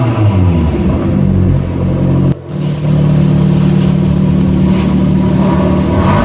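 Maruti Zen's G10B engine through a free-flow exhaust, revved in quick blips that rise and fall, then, after a sudden short break a little over two seconds in, running at a steady speed.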